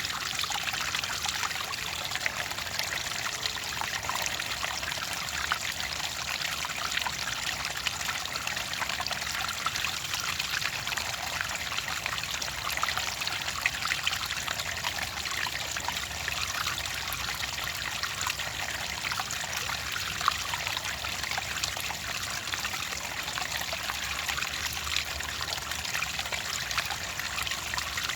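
Clear water trickling and pouring steadily, with a fine crackle of small splashes and bubbles.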